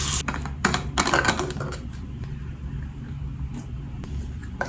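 Running tap water cuts off right at the start, followed by a quick run of clicks and clatters, like small objects being handled, over a low steady hum.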